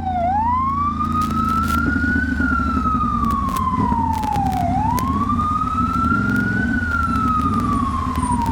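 Ambulance siren in a slow wail: its pitch falls steadily, then swings back up, twice over, each cycle about four seconds long.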